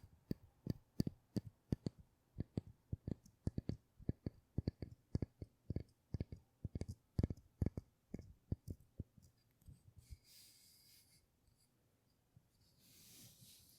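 Quick, sharp tapping clicks, about three to four a second, that stop about ten seconds in. Two soft hissing sounds follow near the end.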